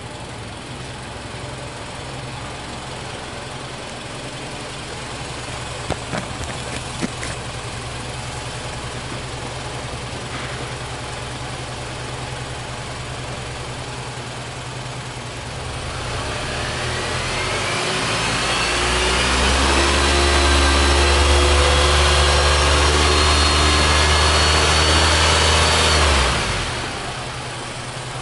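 Mitsubishi Delica D:5 engine idling, then revved up smoothly over a few seconds about halfway through. It is held at high revs for around six seconds, then drops quickly back to idle near the end.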